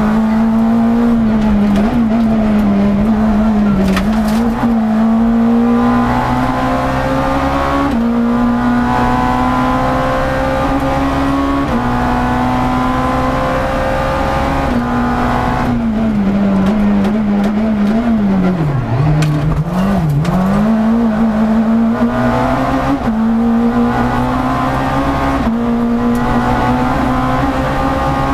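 Rally car engine heard from inside the cabin, driven hard on a stage: the engine note climbs under acceleration and breaks at each gear change. About two-thirds through, the revs dip twice and then climb again.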